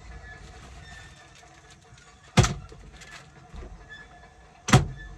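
Two sharp knocks about two seconds apart, with a couple of fainter clicks between them, over a low steady rumble.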